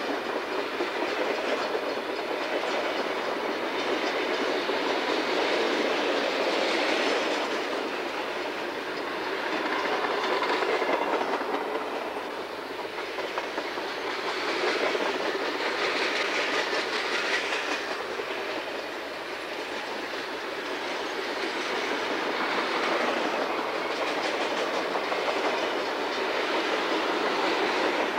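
Freight cars (covered hoppers, tank cars and boxcars) rolling past at track side. Their wheels make a steady rumble and clatter on the rails, swelling and easing every few seconds as cars go by.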